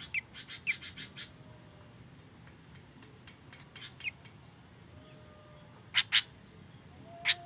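Sooty-headed bulbul giving scattered short, sharp chirps, with two loud calls in quick succession about six seconds in and another near the end.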